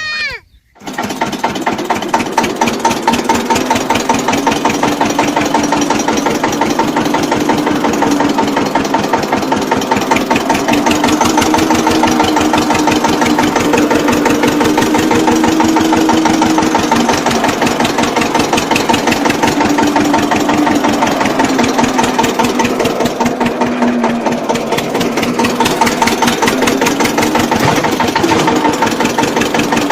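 Engine running steadily with a fast, even putter, starting up just after a brief gap at the very beginning.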